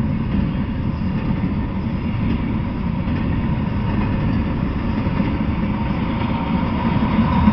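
Intermodal freight train rolling past: a steady rumble of steel wheels on rail from container well cars and trailer-carrying flatcars.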